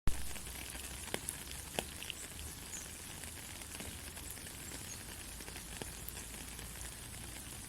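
Soft rain falling: a steady, even hiss with scattered close drips, a few sharper drops about one to two seconds in.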